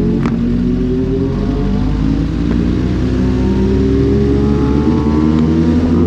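Superbike engine pulling under steady acceleration, its pitch climbing slowly, with a short click just after the start.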